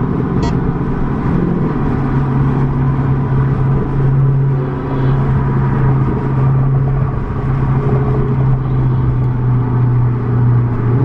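Car engine running with a steady low drone that drops slightly in pitch about a second and a half in.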